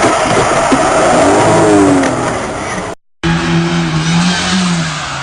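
Motor vehicle running loudly, its engine note rising and falling. The sound cuts out abruptly about three seconds in, then resumes with a steadier pitched engine note.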